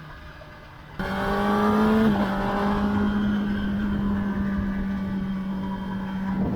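Kawasaki ZX-10R's 998cc inline-four engine under way at steady revs. About a second in it becomes suddenly louder and higher in pitch, rises a little, dips slightly, then holds an even note.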